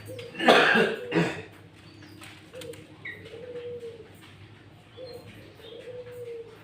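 A dove cooing softly in repeated low, steady notes. A loud, rough, noisy burst comes about half a second in, and a few faint high chirps come later.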